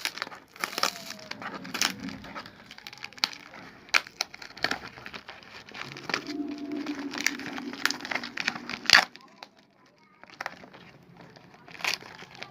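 Paper and plastic packaging crinkling and rustling as it is handled and unfolded, with many sharp crackles and clicks, and a brief lull about ten seconds in.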